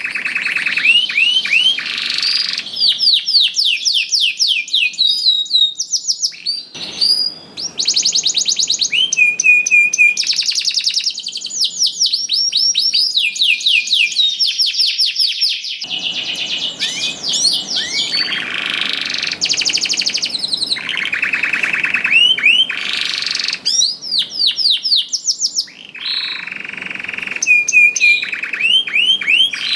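Canary singing vigorously: a long, nearly unbroken song of fast trills and repeated rising and falling notes, with only brief breaks.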